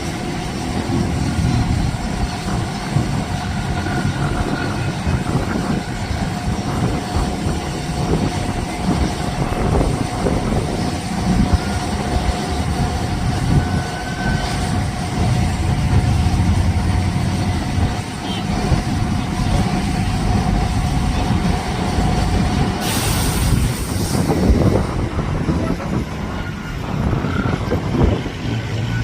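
Boeing 777 jet after landing, a steady low rumble with a faint held whine that cuts off about 23 seconds in, followed by a brief hiss.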